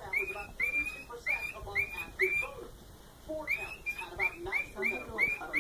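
Cockatiel calling with a rapid run of short, high whistled chirps, each sweeping up and then holding, two to three a second, with a pause of about a second midway.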